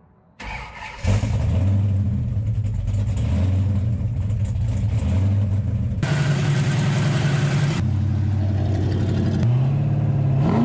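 1968 Dodge Charger's 426 Hemi V8, fed by two four-barrel carburettors, starting about a second in and then running at a steady idle. Near the end it is revved once, its pitch rising and falling.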